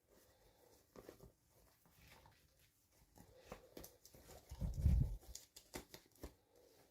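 Hands handling toy packaging: scattered light clicks and rustles of plastic and paper, with a louder low thump of handling about five seconds in.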